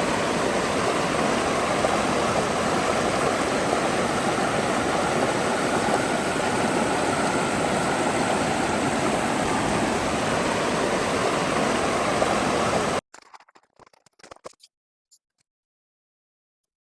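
Steady rush of a mountain creek's flowing water. It cuts off suddenly about 13 seconds in, leaving near silence with a few faint clicks.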